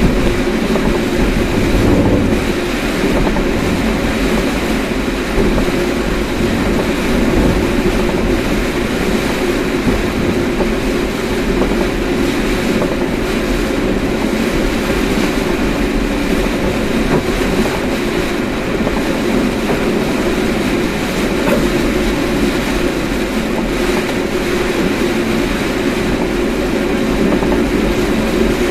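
Car driving at steady speed: a loud, even rumble of tyre, road and engine noise that holds without a break.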